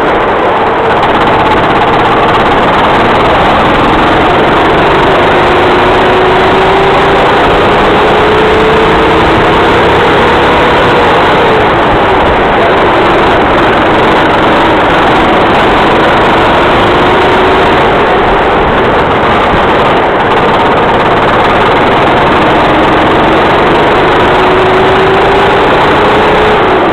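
Racing kart engine running hard at close range. Its pitch climbs slowly as the kart accelerates, drops sharply about eleven seconds in as it slows for a corner, then climbs again twice.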